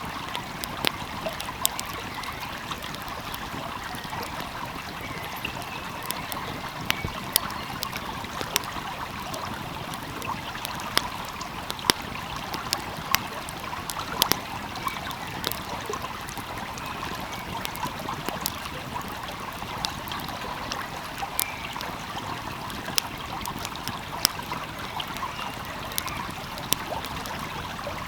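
Wood fire crackling with frequent sharp, irregular pops over the steady rush of a flowing stream.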